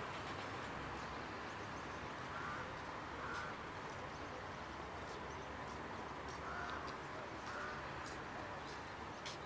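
Steady outdoor background hiss with a few faint, short bird calls, in two pairs.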